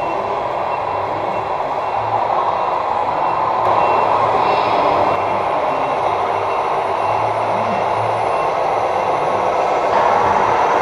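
Scale RC truck sound module playing a truck engine rumble through a small speaker, with faint short repeated beeps like a reversing beeper.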